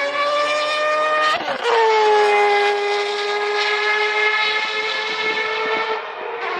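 Historic Formula One car engine running at high revs, its pitch climbing and then dropping sharply about one and a half seconds in before holding a steady high note.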